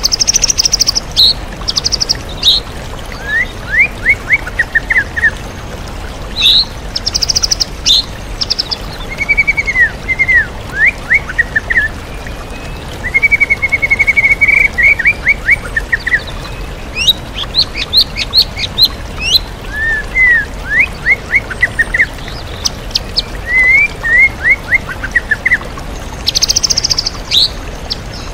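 White-rumped shama singing a varied song of mimicked calls: repeated runs of quick sweeping notes and high rapid trills, phrase after phrase. A waterfall rushes steadily underneath.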